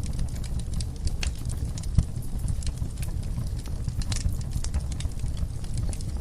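Wood fire burning in a fireplace: a steady low rumble of flames with frequent irregular crackles and snaps from the burning logs, and one louder pop about two seconds in.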